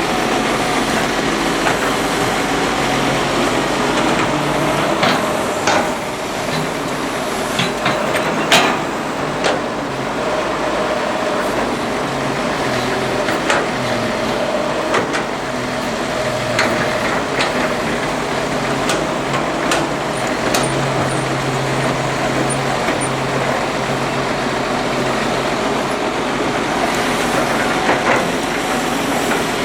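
Excavator diesel engine running steadily, with scattered sharp knocks and clanks.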